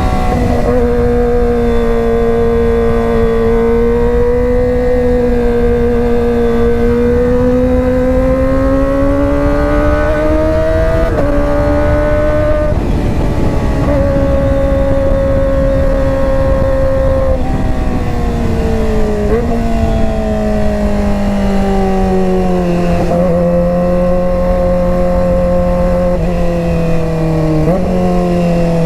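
Kawasaki ZX-25R inline-four engine running through a GP Tech Zeus Short slip-on exhaust. Its note rises and falls steadily, with several sudden pitch steps like gear changes, over a low rushing noise.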